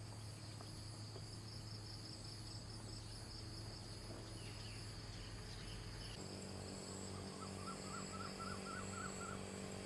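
Insects chirring steadily at a high pitch over a low hum. The background changes abruptly about six seconds in, and near the end a bird gives a quick run of short repeated chirps.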